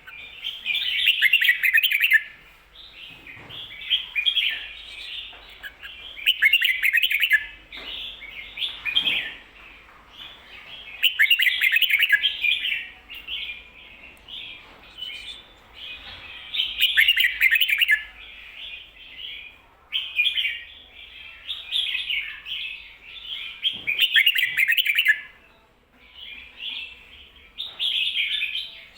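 Red-whiskered bulbul singing its 'ko-ta-ra' song with the doubled ending that bulbul keepers prize. The loud phrases come about every five seconds, with softer chattering notes between them.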